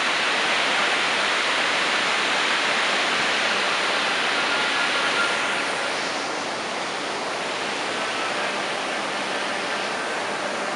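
Steady rush of running water, like a fast river or waterfall, easing slightly about six seconds in.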